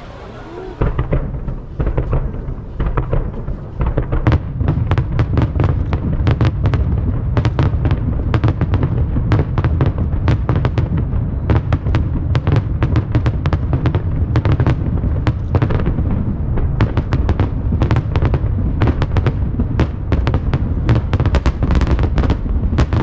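Grand finale of an aerial fireworks display: a rapid, continuous barrage of shell bursts and crackling reports over a steady low rumble, starting about a second in.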